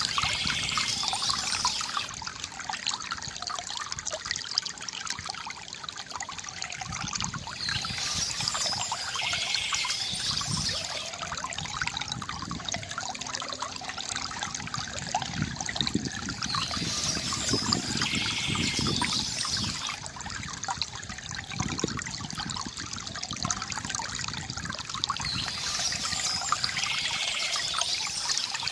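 Water trickling and pouring steadily from a bamboo fountain, with birds chirping in bursts that come back about every eight or nine seconds.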